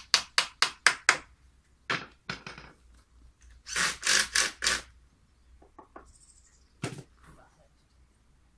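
Hammer striking rapidly, about four blows a second, stopping about a second in. A few scattered knocks and scraping sounds follow.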